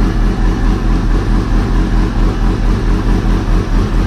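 2005 Kawasaki Ninja ZX-6R 636 inline-four idling steadily through a Two Brothers aftermarket exhaust.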